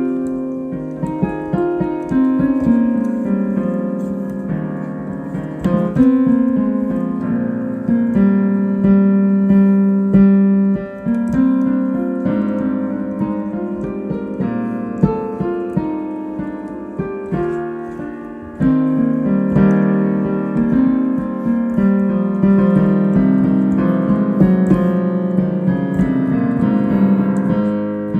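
Solo piano playing an improvised piece: sustained chords and melody notes ringing into each other, with a softer passage that swells again just after the middle.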